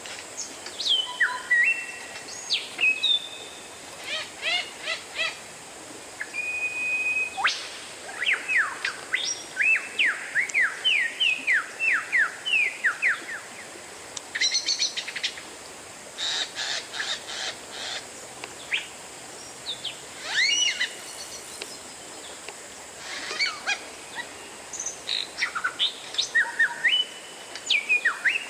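Oriental magpie-robin (kacer) singing a varied song of clear whistles, rising and falling slurs and fast chattering note runs, delivered in phrases with short pauses between them.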